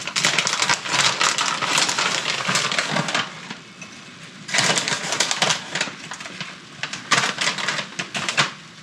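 Crinkling of a plastic bag of shredded cheese being handled and opened, in three bouts of dense crackle.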